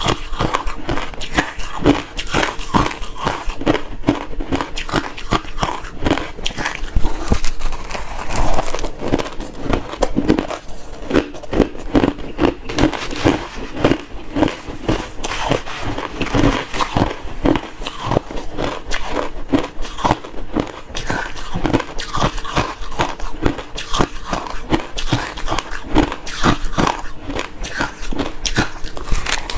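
Close-up chewing of refrozen crushed ice, a quick run of crunches several times a second that goes on without a break.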